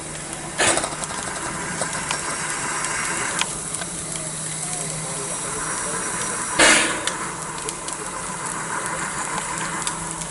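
A railway locomotive running steadily at a standstill, with two short, loud bursts of hissing, one about a second in and another about six and a half seconds in.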